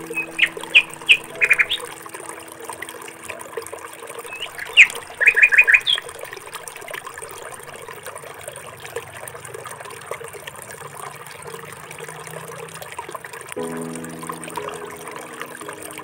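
Small birds chirping in short runs of quick, sharp notes during the first six seconds, over a steady hiss like flowing water. Soft background music with held notes is there at the start, fades, and comes back near the end.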